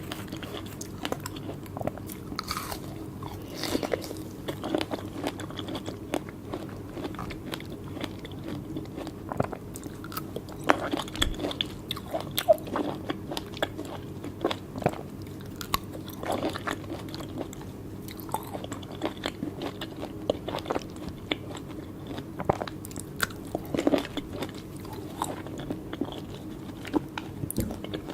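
Close-miked biting and wet chewing of fresh fruit, with many irregular crisp clicks and squelches.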